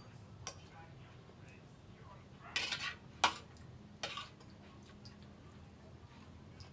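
Tableware clinking during a meal: a spoon knocking against a bowl or plate a handful of times, with a small knock about half a second in, a cluster of clinks around two and a half to three seconds in, and one more just after four seconds.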